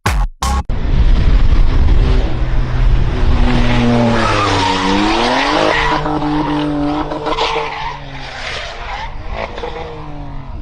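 Car engine running hard with tyres skidding and squealing; the engine pitch drops and then climbs again about five seconds in, and the sound eases off near the end.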